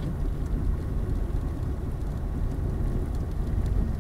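Ford Focus driving on a snow-covered road, heard from inside the cabin: a steady low rumble of engine and tyres on snow.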